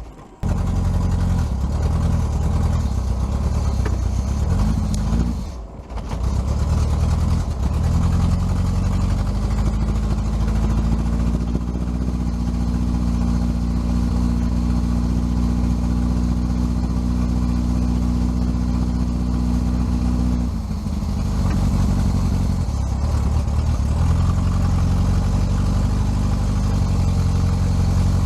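A vehicle engine running, brought up from a low idle to a steady higher speed and held there for several seconds, then dropping back and picking up again near the end. It cuts out briefly twice early on.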